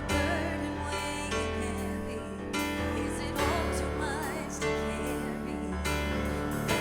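Live worship band playing a slow song with keys, bass and drums, a voice singing over the chords.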